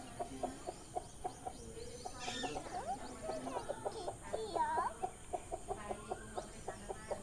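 Chickens clucking, a run of short, repeated clucks several times a second, with a few brief higher rising calls about four and a half seconds in.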